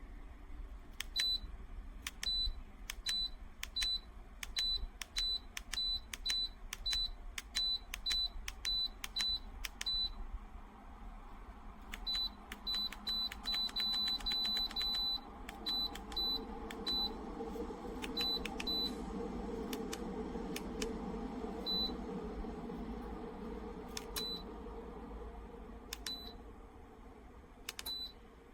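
Dreo tower space heater beeping again and again, short high beeps about two a second and then in a quick run, as its settings are stepped through. From about halfway a steady rush of the heater's fan air grows stronger, then eases off near the end.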